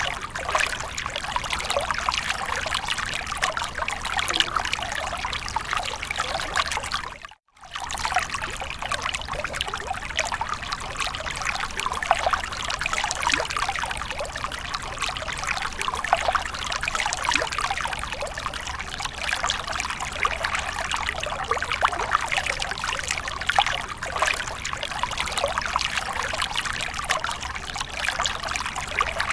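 Water splashing and trickling in a continuous stream, with a brief break about seven seconds in.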